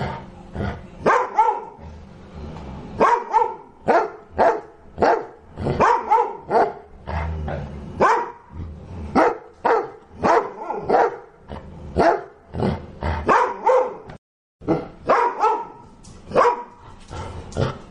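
A dog barking over and over, about one or two barks a second, with a brief break about fourteen seconds in.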